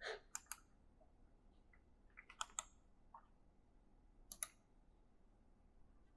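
Keystrokes on an E-Element mechanical gaming keyboard, clicking in sparse, halting bursts: a few strokes at the start, a quick run of four or five about two seconds in, and a pair a little after four seconds.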